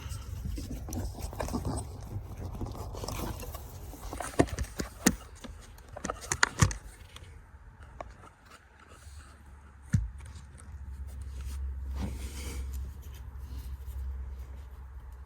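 Hands working a plastic wiring-harness connector loose at the steering column's ignition switch: scraping and rustling, then a run of sharp clicks and snaps partway through and one more knock later on.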